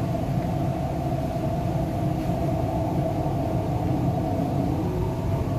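MTR East Rail Line R-Train heard from on board: a steady rumble of wheels and running gear, with a faint steady whine above it.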